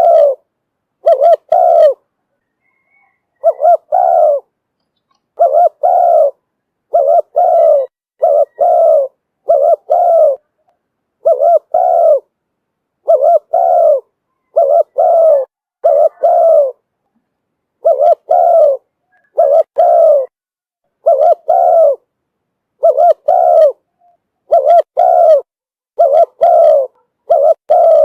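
Spotted dove cooing over and over in short repeated phrases, a decoy call used to lure wild doves, with a brief pause about two seconds in.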